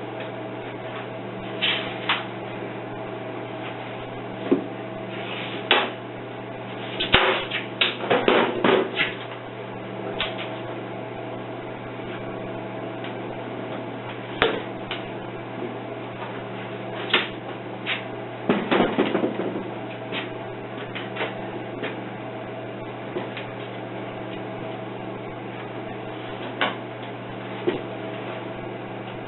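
Sand mold being broken apart to shake out a freshly poured cast-iron cylinder head: scattered knocks and clanks, with two busier spells of knocking and scraping, over a steady hum.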